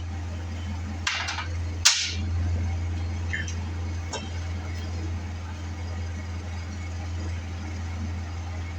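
A few sharp metallic clinks of hand tools on the truck's steering parts, the loudest just before two seconds in, over a steady low hum.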